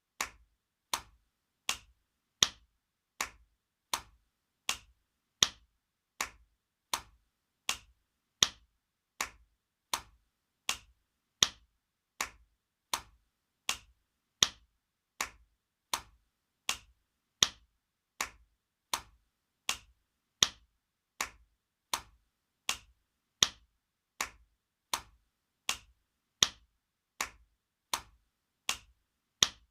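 Spanking sound effect: sharp slaps of a hand on skin, repeating at an even pace of about four every three seconds, some slaps louder than others.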